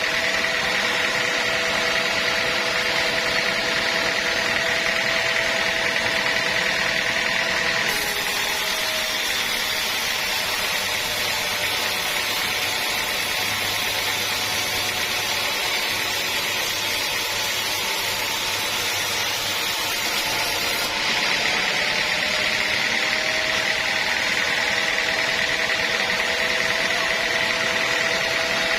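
Sawmill saw running steadily, a mechanical whine with a few held tones. Its tone changes for about the middle half, then returns.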